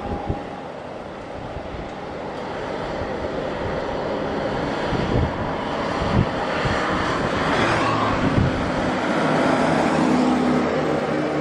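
Boeing 737 MAX 8 airliner on approach, its CFM LEAP-1B jet engines growing steadily louder as it comes nearer, with wind gusts buffeting the microphone.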